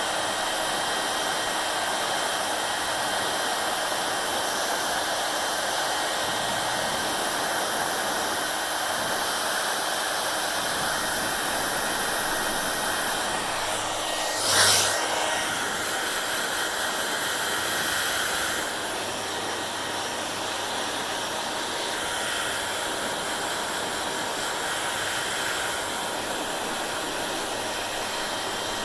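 Hair dryer blowing, a steady rushing noise with a low hum. About halfway through there is a brief louder gust, and a few seconds later the noise drops slightly and shifts in tone.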